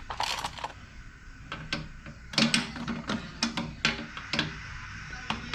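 Irregular sharp clicks and clanks of hand tools and metal parts being worked, a few near the start and a denser run from about two seconds in.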